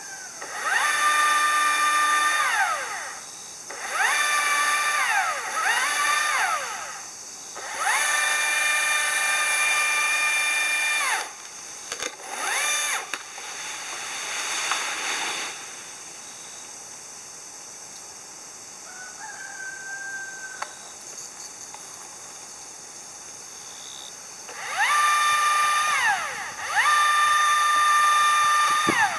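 A power tool motor revving up in repeated bursts, each rising quickly to a steady high pitch, holding for one to three seconds, then winding down; several bursts come in the first half, then a long pause, then two more near the end.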